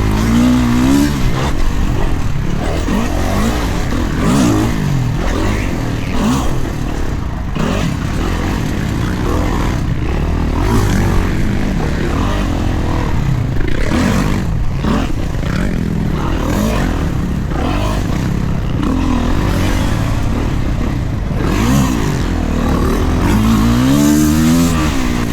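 Kawasaki KX450 four-stroke single-cylinder dirt bike being ridden hard, its engine revving up and dropping back again and again as the throttle is opened and rolled off, with sharp rising revs about a second in and near the end.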